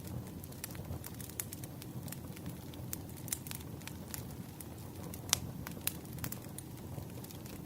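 Wood campfire burning: a steady low rush of flames under frequent sharp crackles and pops, the loudest pop about five seconds in.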